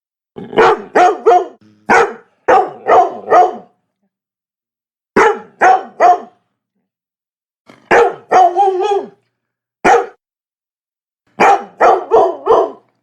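Labrador barking repeatedly in quick groups of three or four sharp barks, with short silent pauses between the groups and one longer, drawn-out bark about eight seconds in.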